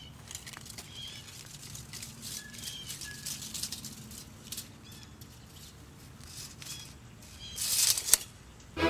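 Quiet outdoor background with small birds chirping now and then in short, high notes. Near the end there is a brief, louder rushing noise.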